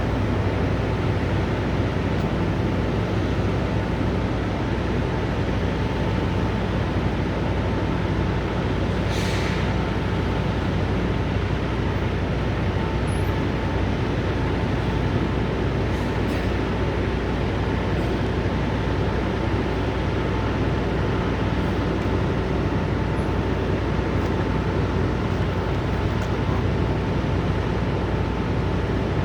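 Steady low drone of idling diesel truck engines, with a thin steady whine and a short hiss about nine seconds in.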